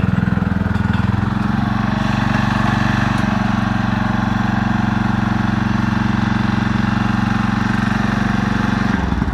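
Riding lawnmower engine running at a steady speed; right at the end its note breaks up and begins to die away.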